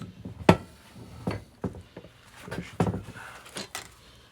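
Irregular metal knocks and clinks, about half a dozen, from handling and working the steel parts of a Kurt milling-machine vise while it is being taken apart.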